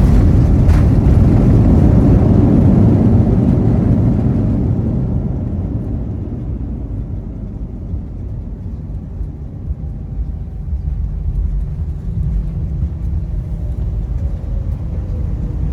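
Cabin noise of an Airbus A319 just after landing: a loud roar of the engines and runway rumble that dies away over the first few seconds as the jet slows, leaving a quieter, steady low hum of the engines while it rolls on toward taxi.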